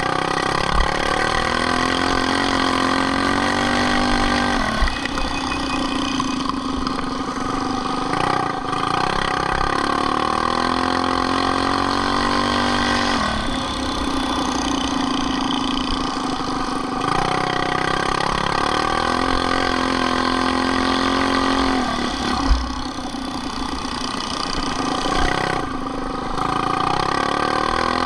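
Minibike engine running at high revs, three times dropping off sharply and then climbing back up in pitch as the throttle is eased off and opened again, about every nine seconds.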